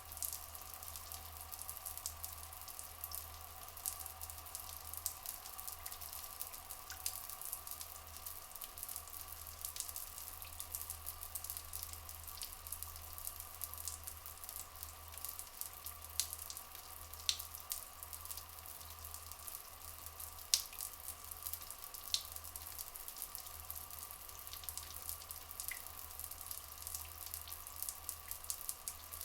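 Rainforest ambience of flowing, dripping water: a steady dense crackle of small splashes and drips, with a steady even tone held underneath.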